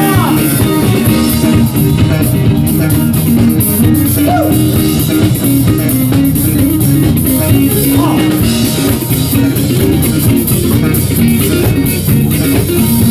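Live rock band playing an instrumental passage between sung verses, with electric guitar and a drum kit keeping a steady beat.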